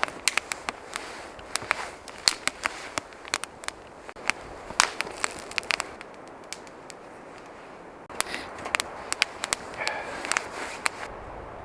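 Irregular sharp crackling and clicking over a steady background hiss, thinning out for a couple of seconds midway.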